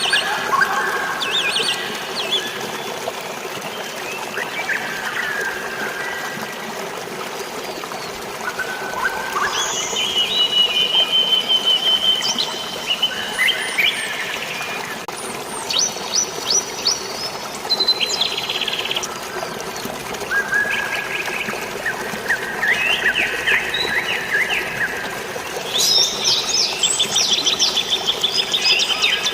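Several birds chirping and singing in short, repeated trilled phrases, one after another throughout, over a steady wash of running water.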